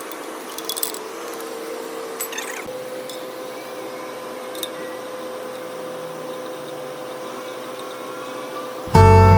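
Steady mechanical hum with a constant tone and a few light knocks and clicks; strummed acoustic guitar music starts loudly near the end.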